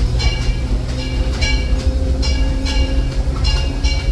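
Narrow-gauge excursion coach of the Disneyland Railroad rolling along behind its steam locomotive, heard from on board: a steady low rumble of wheels on track, with short high ringing sounds about twice a second.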